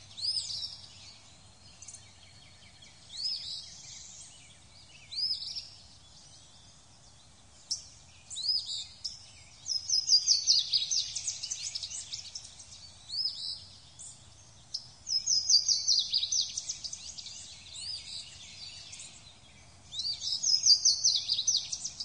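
Songbirds calling: scattered single chirps, with bursts of rapid, quickly repeated notes about ten seconds in, around fifteen seconds and again near the end, over a faint steady hiss.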